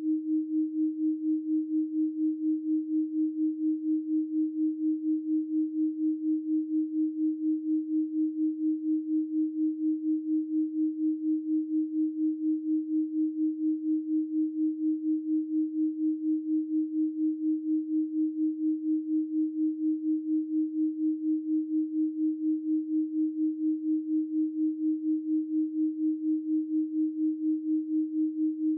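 A 312 Hz pure sine tone held steadily, its loudness pulsing evenly several times a second.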